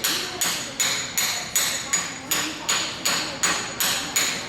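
Steady rhythmic strokes of a hand tool working a wooden hammer handle, about two and a half a second, each a short hiss that starts sharply and fades.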